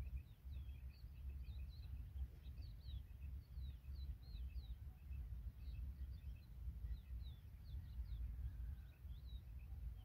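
Small birds chirping in short, quick, scattered notes over a low, uneven rumble of wind on the microphone.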